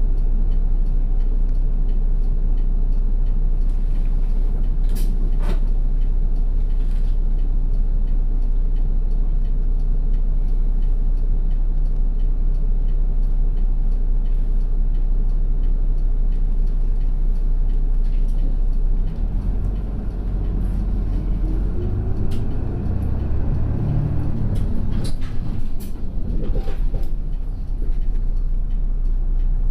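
Route bus's diesel engine running with a steady low drone, then revving up as the bus moves off about twenty seconds in, the engine note rising. A few sharp clicks or knocks are heard along the way.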